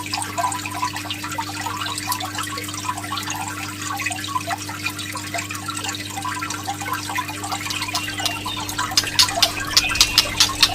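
Dense patter of small water-like drips and trickles over a steady low hum. Near the end sharp clicks and a thin high whistled note come in.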